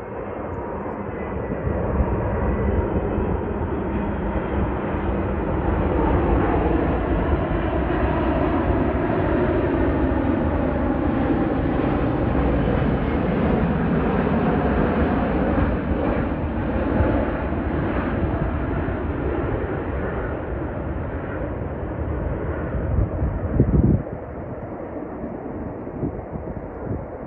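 Airbus A380-861 with four Engine Alliance GP7200 turbofans flying past on arrival. The roar builds, peaks with a whine that falls in pitch as the jet passes, then fades. A brief loud bump near the end, after which the low rumble drops away.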